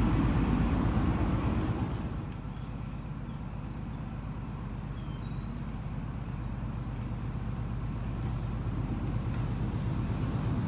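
Low rumble that drops away about two seconds in, then an approaching train's low rumble slowly growing louder toward the end, with a few faint bird chirps.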